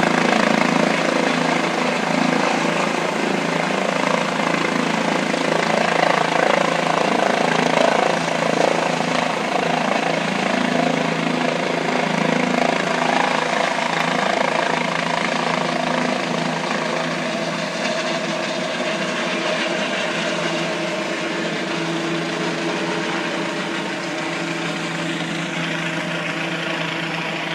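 Helicopter turbine and rotor running steadily, a dense continuous drone that grows slowly fainter toward the end.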